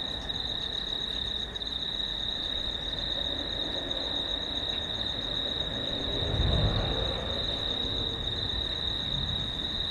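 Steady insect chorus, a continuous high trill with a fainter pulsing chirp above it, over a low rumble of distant thunder that swells about six to seven seconds in.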